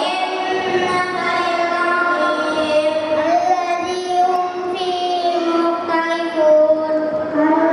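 Children singing in long, held notes that shift gently in pitch.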